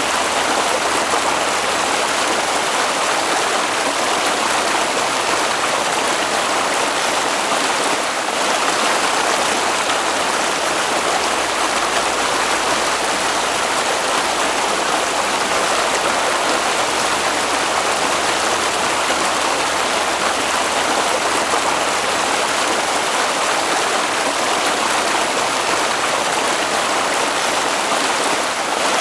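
Water flowing in a stream, a steady unbroken rush.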